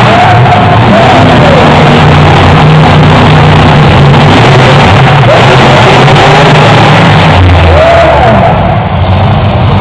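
Monster truck engine running at high volume, mixed with loud music and a voice over the arena PA, recorded at overload. There is a brief dip near the end.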